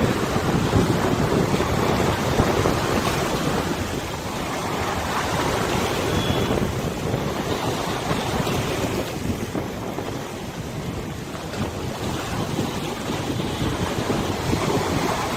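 River waves washing and splashing, with wind buffeting the microphone: a steady rushing noise that swells and eases.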